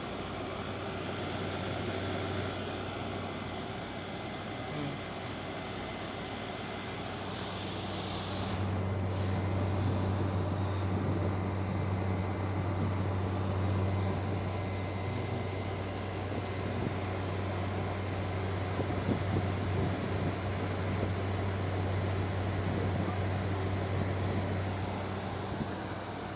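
2023 GE (Midea) 5,000 BTU window air conditioner running in cool mode: fan air rushing over a steady low compressor hum. The hum gets louder about eight seconds in and holds there.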